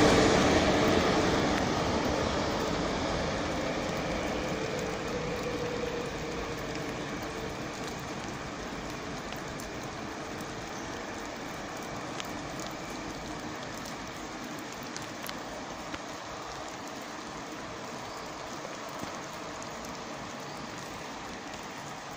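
ICE high-speed train running past and away, its rolling and wheel-on-rail noise fading steadily over several seconds into a faint steady hiss.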